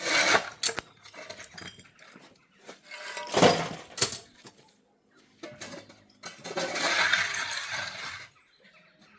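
Hard uPVC window sill and tools being handled: a sharp clatter at the start, a louder knock about three seconds in, and a longer scraping rustle in the second half, as silicone is run along the sill.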